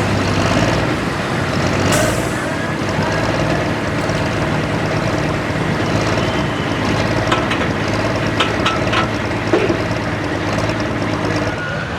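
Diesel pulling-tractor engine running steadily at high revs under load, loud.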